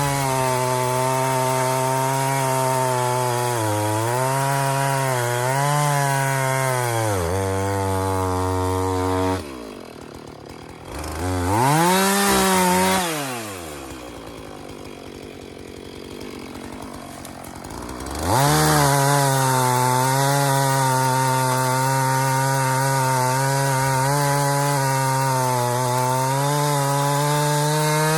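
Two-stroke chainsaw cutting up fallen trees: the engine runs at high revs with slight dips under load. About nine seconds in it drops to idle, gives one quick rev up and down, and about eighteen seconds in opens up again to high revs and keeps cutting.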